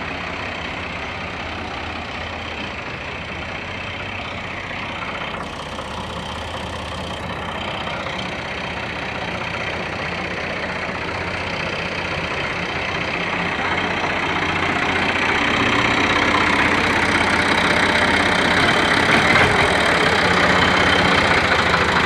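New Holland Ghazi 65 hp tractor's diesel engine running steadily, growing louder from about two-thirds of the way through.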